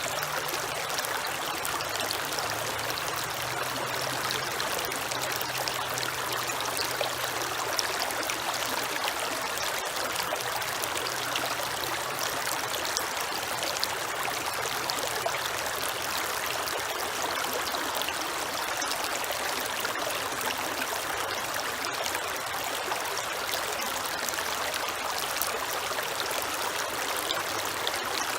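Creek water flowing and trickling steadily, with a faint low hum underneath during the first half.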